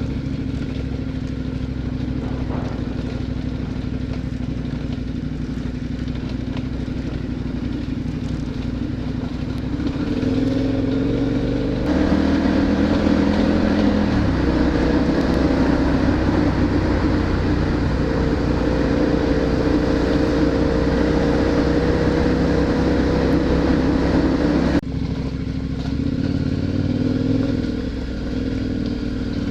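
Adventure motorcycle engine running under way, steady at first, then louder with the engine note rising about a third of the way in. It drops back abruptly about five seconds before the end.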